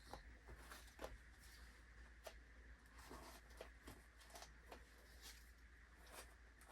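Near silence: room tone with a low hum and faint, scattered light clicks and rustles.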